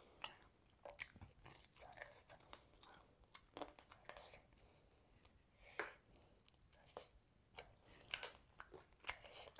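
A person chewing and biting grilled chicken close to the microphone: wet mouth sounds broken by short, sharp crunchy clicks at an irregular pace, a few each second.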